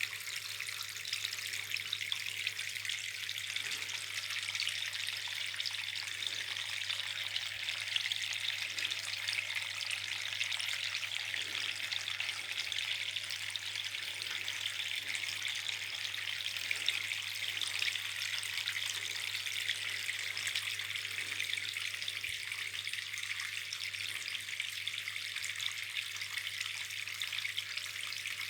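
Small flowerpot tabletop waterfall, water trickling and splashing steadily, with a steady low hum underneath.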